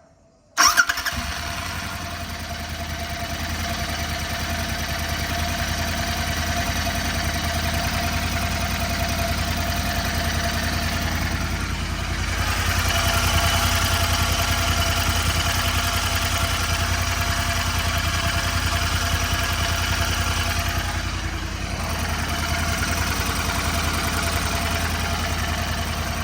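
Royal Enfield Continental GT 650's parallel-twin engine starting up about half a second in with a sharp burst, then idling steadily. It runs a little louder for a few seconds around the middle.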